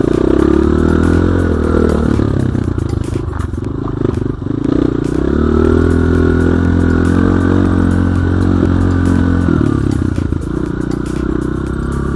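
Enduro dirt bike engine running hard under throttle while riding off-road, its pitch shifting with the revs and dipping briefly about four seconds in, with rattling clatter over it.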